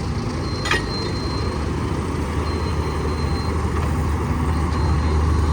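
Tractor diesel engine running hard under load, its low drone growing louder near the end as it strains to pull a stuck trolley. A brief sharp click is heard about a second in.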